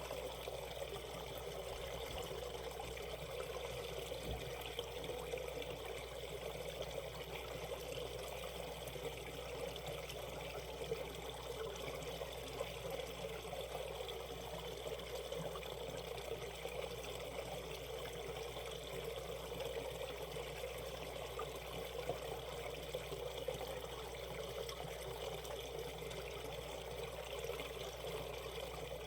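Shallow mountain stream water running and splashing over rocks, a steady rush.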